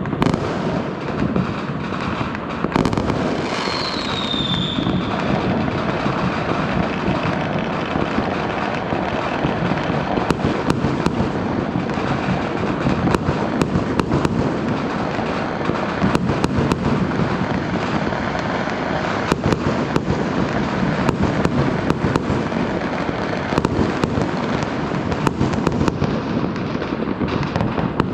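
Fireworks going off without a break: a dense run of crackles and sharp bangs. A falling whistle comes about four seconds in.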